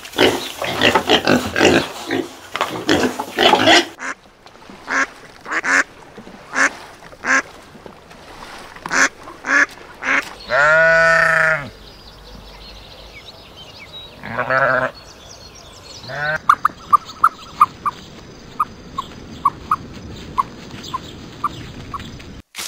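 Piglets grunting busily for the first few seconds, then scattered short animal calls. A sheep gives one long, loud bleat, followed by two shorter bleats. After that, ostrich chicks peep at an even pace, about two peeps a second.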